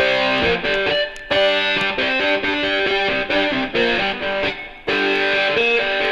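Background rock music: a distorted electric guitar playing a riff of held notes with short breaks between phrases.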